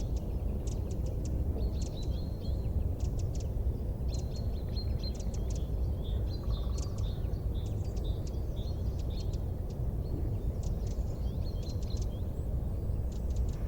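Small birds chirping in quick runs of short high notes over a steady low rumble from a wood fire.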